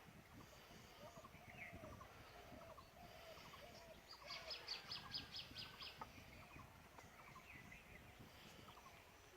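Birds calling faintly: repeated short lower calls throughout, and a rapid run of high notes from about four to six seconds in.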